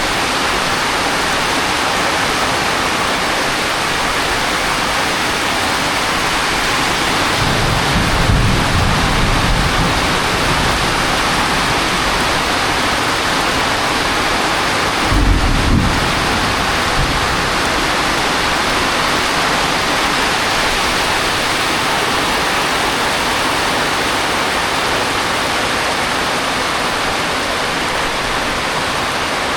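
Heavy rain falling steadily, with two low rumbles of thunder, a longer one about a quarter of the way in and a shorter one about halfway.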